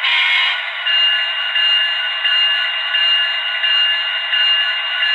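HO-scale Walthers Mainline SD70 diesel locomotive's onboard sound decoder playing through its small speaker: the prime mover idling, with a locomotive bell starting to ring about a second in and striking steadily about once every 0.7 s.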